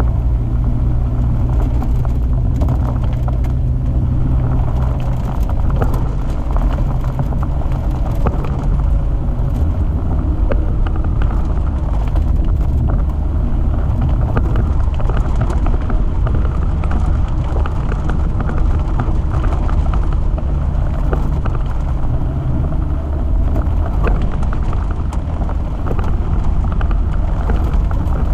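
Jeep Wrangler TJ driving along a forest 4WD track: steady engine and drivetrain rumble with scattered small knocks and rattles.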